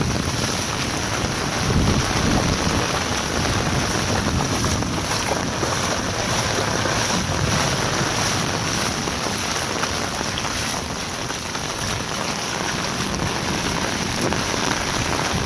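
Heavy tropical downpour: a steady rush of rain, with wind buffeting the microphone.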